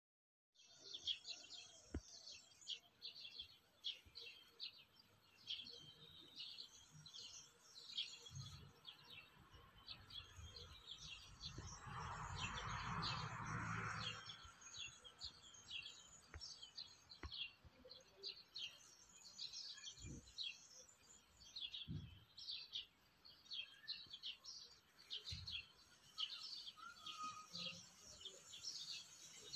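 Faint chorus of small songbirds chirping and twittering without pause, many short high calls overlapping. Midway a brief rushing noise rises and fades over about two seconds.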